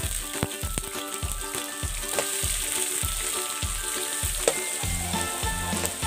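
Shredded banana blossom sizzling as it fries in oil in a wok, stirred with a metal spatula that clicks and scrapes against the pan.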